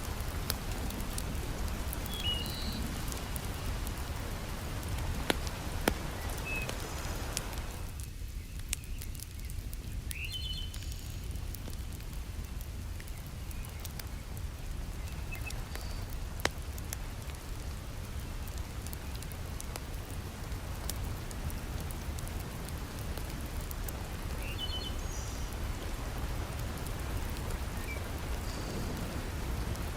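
Heavy rain falling steadily, with occasional sharp crackles and pops from a log fire and a few faint short chirps.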